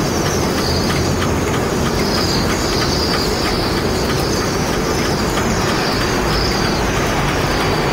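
A flock of cedar waxwings giving thin, high calls again and again over a loud, steady, low rumble.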